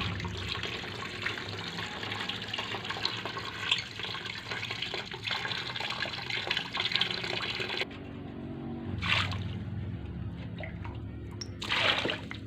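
Steady rush of running or splashing water, which cuts off abruptly about eight seconds in, leaving a quieter low hum broken by two short noisy bursts.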